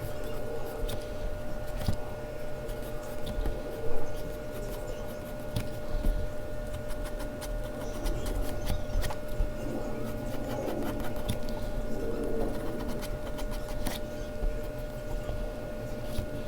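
Mechanical pencil scratching and shading on Bristol paper, with scattered small taps and clicks, the sharpest about four seconds in. A faint steady hum runs underneath.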